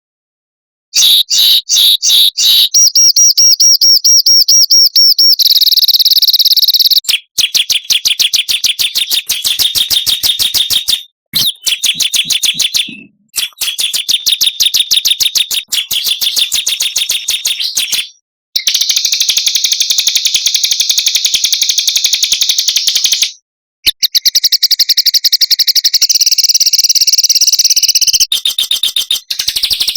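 Small songbirds singing fast, sharp, dense trills and rapid repeated chirps, in long loud runs broken by short abrupt gaps, starting about a second in. It is a spliced bird-mastering recording meant for songbirds to copy.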